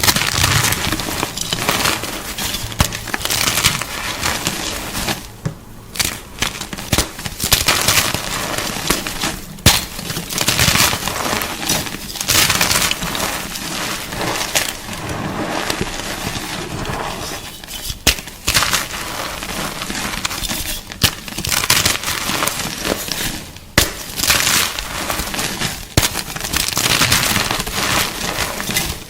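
Gym chalk crunching and crumbling close up: uneven bursts of dry, crisp crunching with sharp snaps now and then and a few short pauses.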